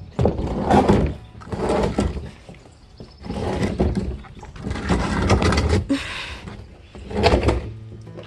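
Heavy objects being handled and moved: several bouts of knocks, thuds and scraping, each lasting about a second, with quieter gaps between.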